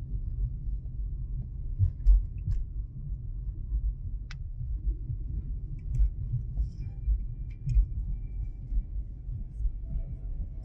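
Low rumble of a car cabin while driving, with irregular dull thumps and a few faint clicks.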